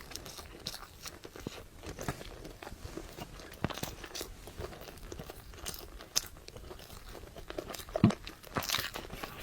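Close-miked eating sounds: a person chewing noodles, with scattered small crunches and mouth clicks and one louder knock about eight seconds in.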